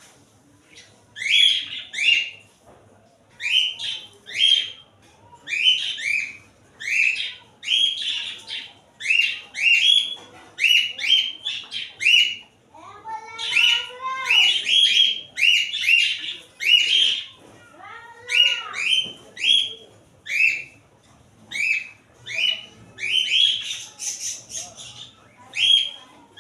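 A bird calling over and over in short, high, two-note chirps, about once a second. Two lower, arching calls break in partway through.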